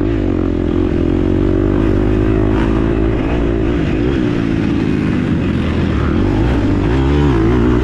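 Four-stroke single-cylinder engine of a KTM 250 SX-F dirt bike running under throttle, its pitch rising and falling as the rider works the throttle, with a quick rev up and down near the end.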